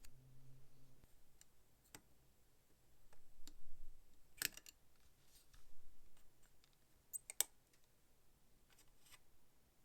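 Scattered small clicks and light taps of hand tools and small metal parts being handled, the loudest about four and a half and seven and a half seconds in.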